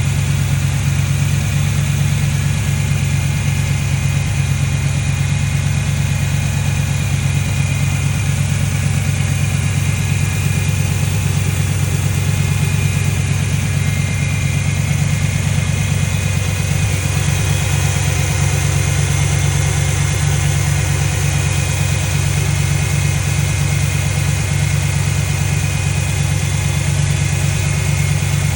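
Chevrolet Monte Carlo G-body engine idling steadily while its cooling system is burped of trapped air.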